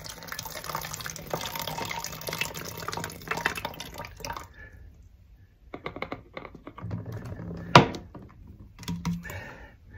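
A small amount of water sloshing and splashing in a hiker's water bottle as it is handled, with small clicks and handling noise. It goes quiet briefly about halfway, then comes back as scattered clicks with one sharp knock near the end.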